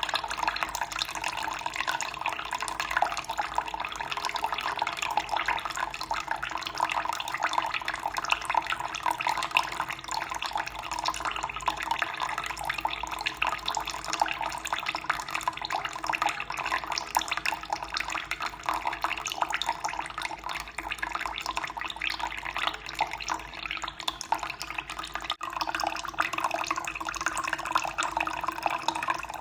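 Running water flowing and splashing in a steady, unbroken stream.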